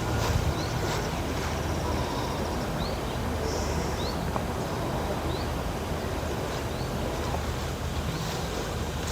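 Outdoor garden ambience: a steady low rumble, typical of wind on the microphone, with a handful of short, falling bird chirps spread through it.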